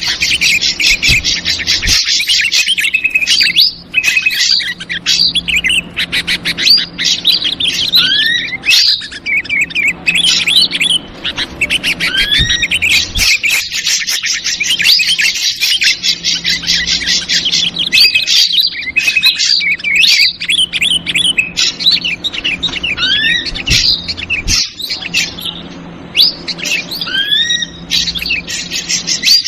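Bird-lure recording of ashy drongo calls mixed with agitated yellow-vented bulbul chatter. It is a dense, busy flurry of rapid chirps and harsh notes, broken every few seconds by a short rising whistle.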